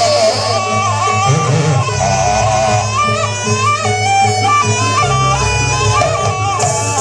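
Jaranan Buto ensemble music: a shrill reed-pipe melody stepping from note to note over steady low gong tones and drums.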